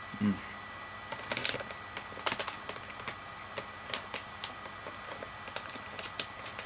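A person chewing dry, crunchy shelf-stable chicken nuggets: scattered faint crisp clicks and crackles at an uneven pace, after a brief low hum from the eater right at the start.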